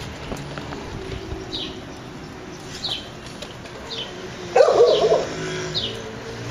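Birds calling: one repeats a short, high, falling chirp about once a second, and a louder, lower call lasting about half a second comes a little past halfway.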